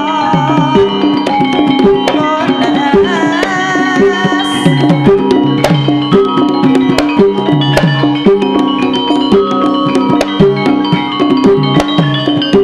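Javanese gamelan music for a lengger dance: kendang hand drums beating a steady rhythm, their strokes dropping in pitch, over ringing metallophone notes, with a wavering melody line in the first few seconds.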